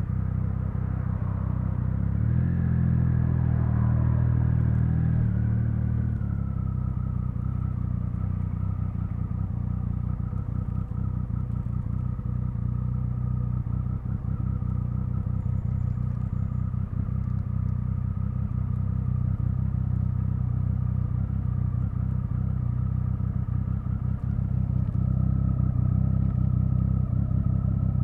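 Triumph Speed Triple 1050's inline three-cylinder engine running on the road. It pulls louder and fuller for a few seconds near the start, then settles to a steady, even note.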